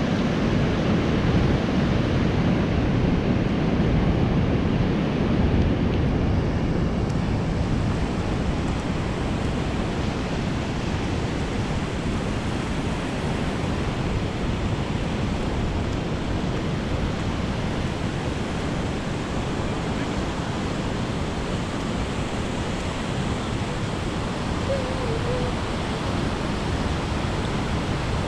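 Steady rush of ocean surf breaking, mixed with wind on the microphone, a little louder in the first few seconds.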